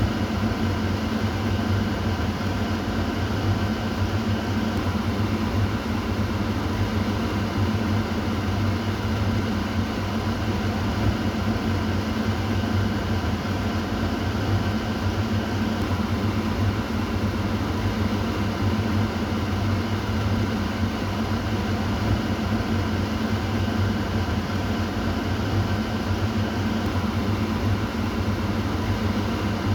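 Kitchen exhaust fan running steadily: a constant low hum under an even rush of air, with no change in speed.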